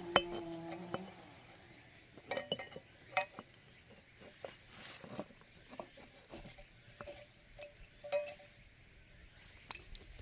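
Scattered light clinks and clicks of small hard objects being handled, several with short ringing tones, the loudest about eight seconds in.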